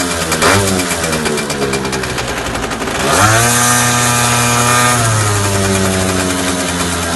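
Peugeot Speedfight 4 scooter engine revved through its exhaust while standing: a quick blip just after the start, then a longer rev about three seconds in, held for about two seconds before dropping back to idle.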